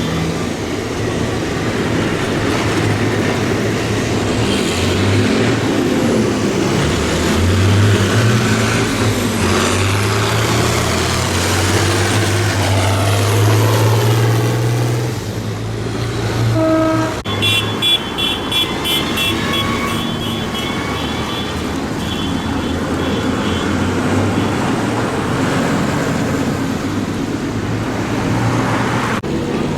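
Tractor engines running as a procession drives past, one engine note swelling and rising slightly as it passes. About halfway through there is a short horn toot, then a few seconds of rapid, repeated high-pitched beeping.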